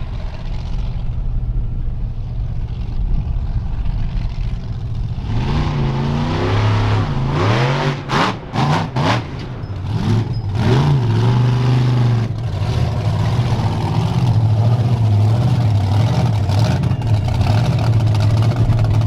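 Monster truck engine running steadily, then revved up and down repeatedly from about five seconds in, with a few brief drops near the middle. It then holds at a higher, steady speed with a slight waver.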